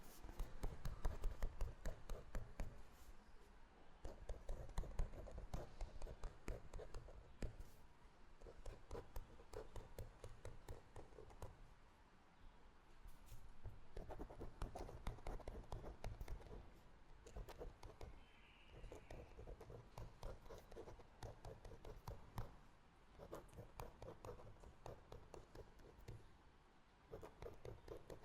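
Handwriting on paper: quick scratchy pen strokes in spurts of a few seconds, with short pauses between them.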